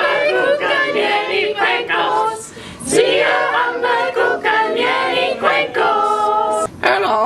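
Voices singing together a cappella, with a few notes held near the end.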